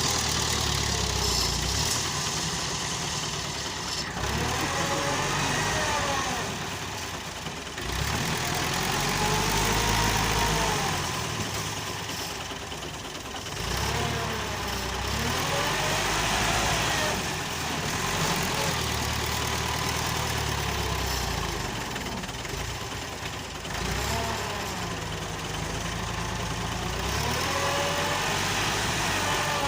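Massey Ferguson 265 tractor's diesel engine pulling a heavily loaded trolley, its revs rising and falling in repeated swells a few seconds apart.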